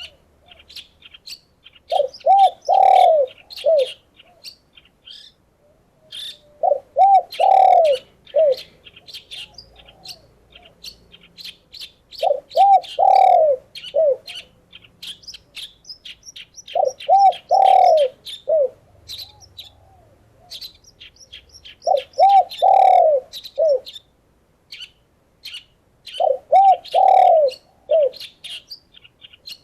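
A dove cooing in six phrases of about five rounded notes each, one phrase every four to five seconds. Beneath and between them, small songbirds keep up steady high chirping and twittering.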